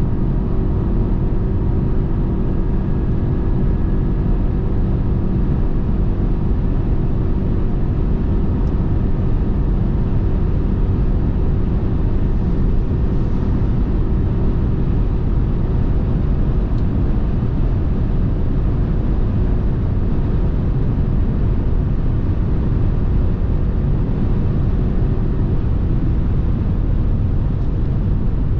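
Steady road and wind noise of a Lexus NX 300h hybrid cruising on a motorway, heard from inside the cabin: a continuous deep rumble of tyres with a faint steady hum over it, which fades near the end.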